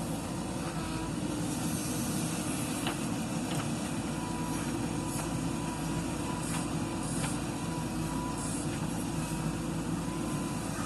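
Heavy diesel engine of a JCB 3DX backhoe loader running steadily while it works, with a few faint knocks scattered through it.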